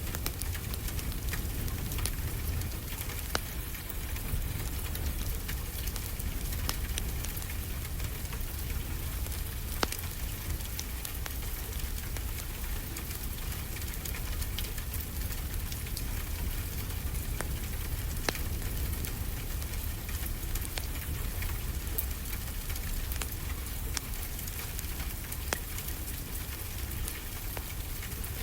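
Wood fire crackling, with a sharp pop every few seconds, over a steady low rumble and hiss of ocean waves.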